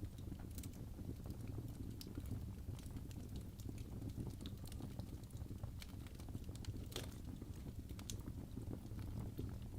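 Wood fire burning in a fireplace: a steady low rumble of flames with irregular sharp crackles and pops from the logs, one louder pop about seven seconds in.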